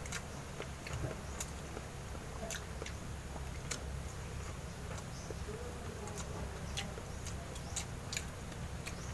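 Two people chewing and smacking their lips while eating rice and goat stew by hand: scattered, irregular sharp wet clicks over a steady low hum.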